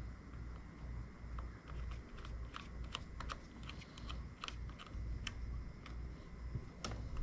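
Irregular light clicks and taps of hands handling small plastic parts, over a low rumble.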